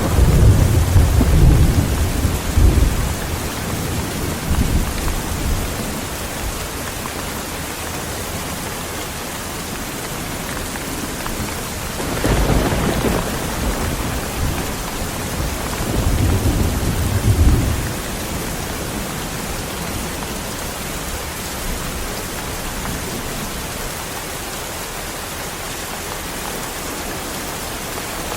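Heavy rain falling steadily in a thunderstorm, with rolls of thunder: one rumbling at the start and dying away over a few seconds, and two more low rumbles a little before and after the middle.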